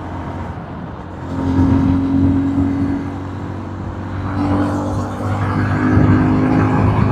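Motorcycle engine running at a steady pitch while riding in traffic, with road and wind noise. It gets louder about a second in.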